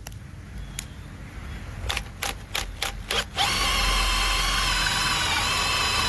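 Makita XPH07 brushless hammer drill: the trigger is blipped in about five short bursts, then held, and the motor runs with a steady high whine for the last few seconds. It is running normally on a fresh battery.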